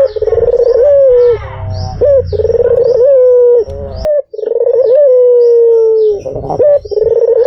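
White Barbary dove (puter putih) cooing over and over: loud, drawn-out coos that each jump up in pitch and then hold or slowly fall. A brief break with a sharp click comes about four seconds in.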